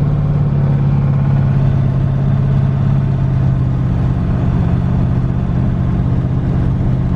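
LS V8 with twin turbos and no mufflers, cruising at low revs: a loud, steady exhaust drone whose pitch eases slightly lower, heard from inside the car.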